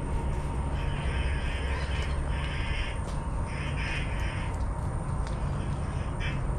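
A bird calling three times, each call lasting most of a second, over a steady low rumble.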